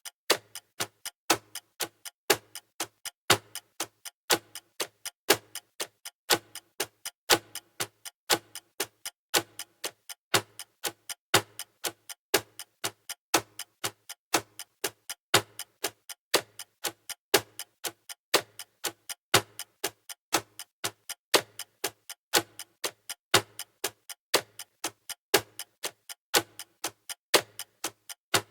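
Clock ticking sound effect: sharp, even ticks repeating steadily, several a second, some louder than the rest, marking off the seconds of a countdown timer.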